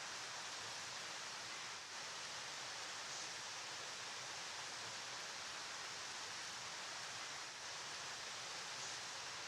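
Flowing river water making a steady, even rushing hiss.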